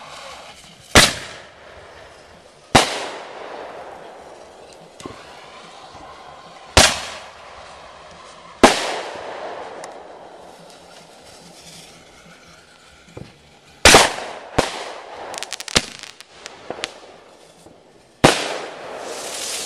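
Fireworks going off: about seven loud bangs at uneven intervals, each trailing off in a hiss. A cluster of quick crackles comes in the second half, and a swelling hiss near the end.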